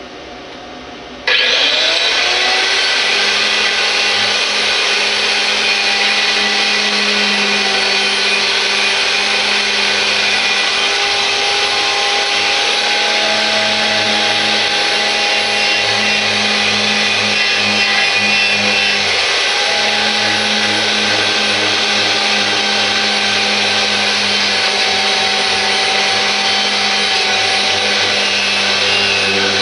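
Power tool with a wire brush switching on about a second in, its motor spinning up, then running steadily as it scrubs paint off a metal bracket.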